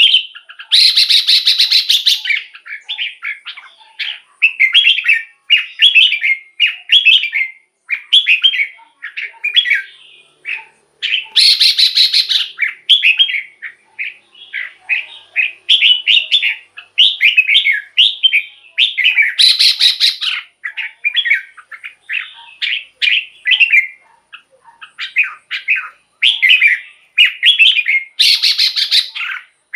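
Red-whiskered bulbul singing: a steady run of short, quick-changing whistled phrases, broken about every eight to nine seconds by a louder, harsh, buzzy call lasting about a second.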